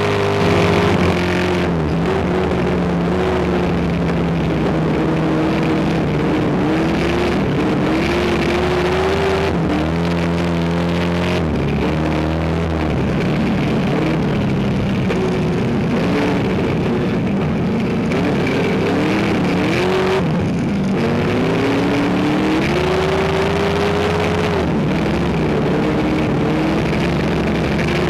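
Race car engine under hard acceleration. The revs climb and drop back again and again as it shifts and lifts through corners, with no break in the engine sound.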